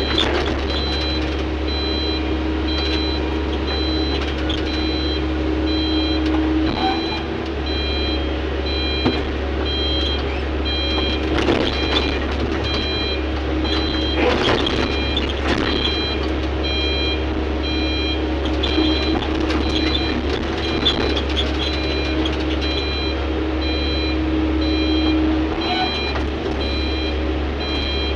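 Heavy mining machinery diesel engine running steadily while a backup/travel alarm beeps repeatedly in an even on-off rhythm, with a few knocks and clanks around the middle.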